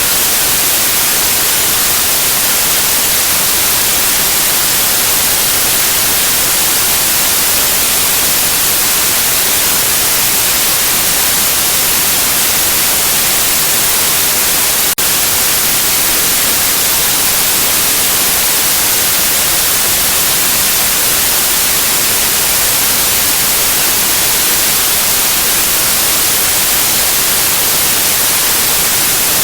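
Steady, loud white noise hiss, even and unchanging, with a single brief tick and momentary dip about halfway through.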